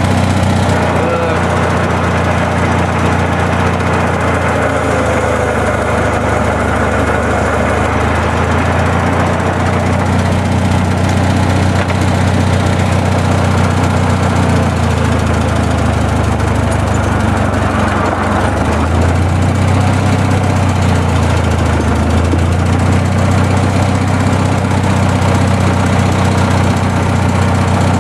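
An old Massey Ferguson tractor engine running steadily at idle, with a slight shift in its note about two-thirds of the way through.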